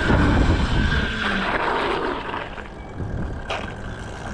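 Mini bike riding along, its motor running with a steady whine over a low rumble that eases off after about a second; a short sharp click near the end.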